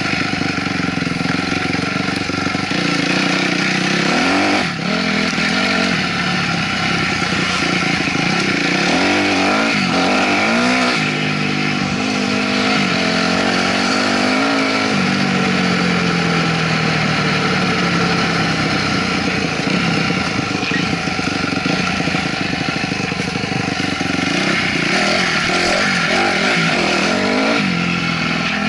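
2008 Honda CRF250R's single-cylinder four-stroke engine being ridden, heard from a helmet-mounted camera, its pitch rising and falling as the throttle is worked. The engine note briefly drops about five seconds in.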